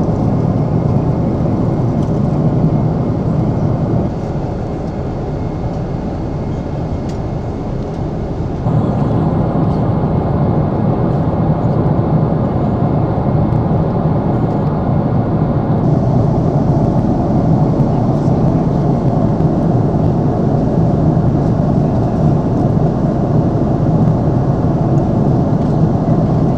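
Steady rushing cabin noise inside a Boeing 777-300ER, strongest in the low range. It drops a little in level from about four seconds in to about nine seconds in, then returns.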